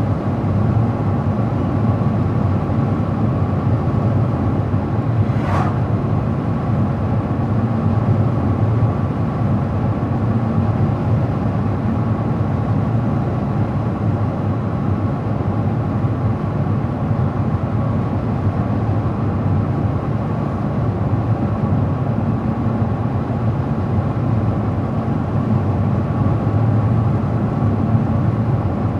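Car driving at a steady speed: steady engine and tyre noise on the road. A brief sharp tick sounds about five seconds in.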